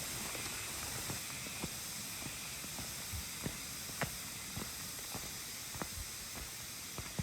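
A hiker's footsteps on a stone trail, a step or two each second, over a steady rushing hiss like a mountain stream.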